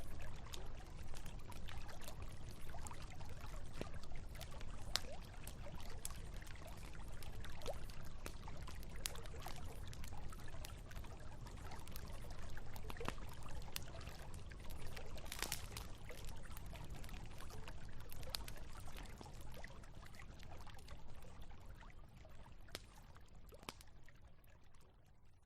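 Campfire crackling with sharp, irregular pops over the steady rush of a flowing river; the sound fades out toward the end.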